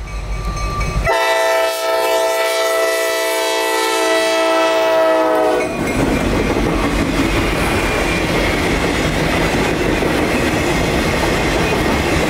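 Diesel locomotive's air horn blowing one long blast of about four and a half seconds, starting about a second in. It is followed by the rumble and wheel clatter of the train passing close by.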